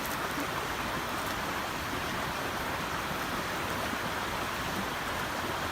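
A river flowing steadily, an even rushing of water.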